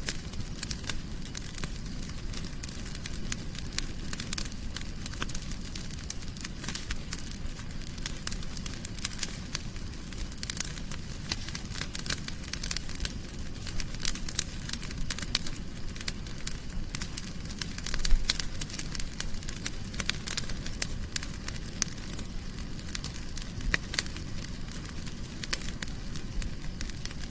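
Wood fire burning in a fireplace, crackling with many quick irregular pops over a low rumble of the flames, with one louder pop about two-thirds of the way through.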